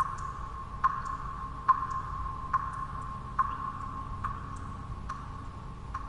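Water drops falling one at a time at an even pace, a little faster than one a second, each a sharp plink with a short ringing tone. A steady low noise runs beneath them.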